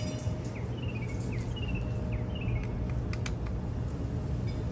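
A bird chirping in a series of short, quick falling notes over a steady low hum, with a couple of sharp ticks about three seconds in.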